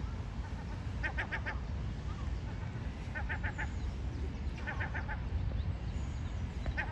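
A bird calling in four bursts of four or five quick, pitched notes, repeated every second and a half to two seconds, over a steady low rumble.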